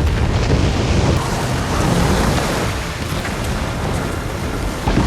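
Film sound effect of a dam bursting: a huge mass of released water rushing and crashing, with a deep rumble under it.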